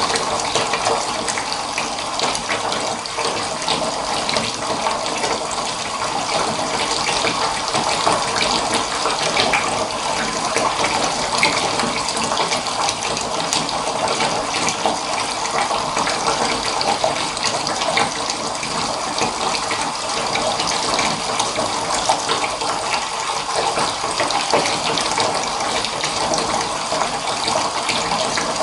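Water running steadily from a tap into a bath, an even rushing splash that does not change.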